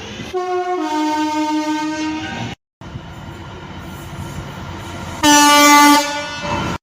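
Train horns: a two-tone horn sounding high then low for about two seconds and stopping abruptly, then a steady rush of noise, then a shorter, louder single-tone horn blast near the end.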